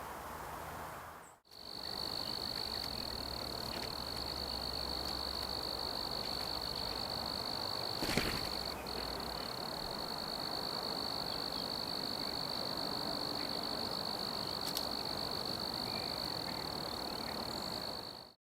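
A continuous high-pitched insect trill that runs steadily, breaks briefly about nine seconds in, and stops abruptly near the end, over a low outdoor background. A single sharp click comes about eight seconds in.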